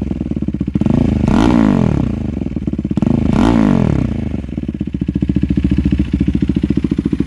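2022 KTM RC 390's single-cylinder engine through an aftermarket IXIL exhaust, revved twice with quick throttle blips, each rising and falling in pitch, then settling back to a steady idle. The exhaust has a full, deep bass note that is not very loud.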